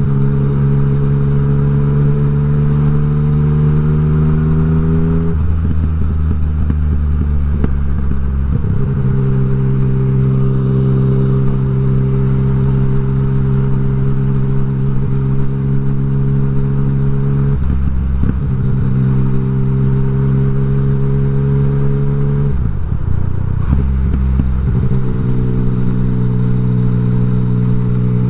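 A Yamaha MT-09's three-cylinder engine running through an Akrapovič exhaust with the dB killer removed. Its note climbs slowly over the first five seconds, then holds steady in long stretches, breaking off and changing pitch about five, eighteen and twenty-three seconds in.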